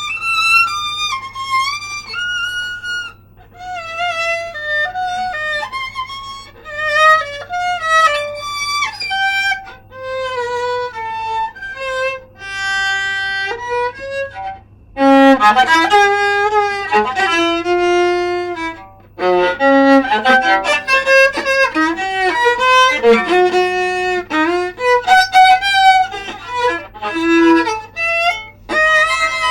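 Solo viola played with the bow: a melody of quick, mostly stepwise notes broken by short pauses, getting clearly louder about halfway through.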